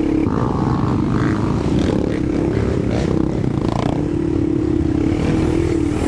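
ATV (quad) engine running steadily, its pitch wavering in the first few seconds and then holding more even.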